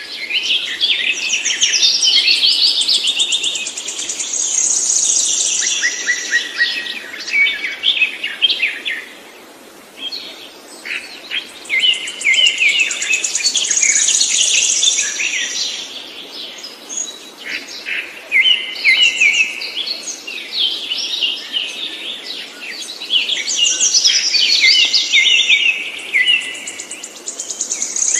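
A songbird singing long, varied phrases of rapid chirps and trills, each several seconds long, with short pauses between them.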